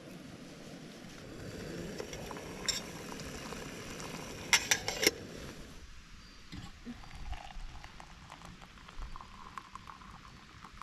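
A steady hiss of cooking, like water heating on a camp stove, with a few sharp metallic clicks about four and a half seconds in; the hiss stops abruptly about six seconds in, and light taps and clinks of cookware follow.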